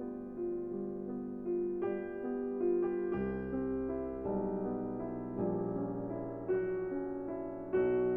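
Background music: slow, gentle solo piano playing a melody over held chords.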